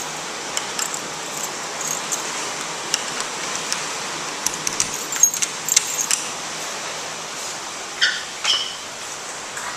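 Steady hiss of rain, with scattered light clinks and taps that bunch up around the middle, and two short higher-pitched sounds near the end.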